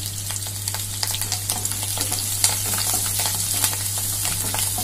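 Sliced onions and fresh curry leaves sizzling in hot oil in a non-stick kadai, with a steady hiss and fine crackling throughout as a wooden spatula stirs them.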